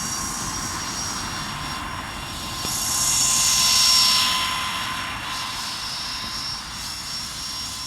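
Small remote-controlled aircraft's electric motors and rotors whining steadily with a hiss of rotor wash, growing louder about three seconds in as it comes close, then fading a little.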